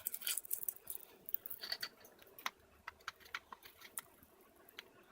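Cockatiel cracking and nibbling oat groats with its beak: an irregular run of small sharp clicks and crunches. A short, soft squeak comes a little under two seconds in.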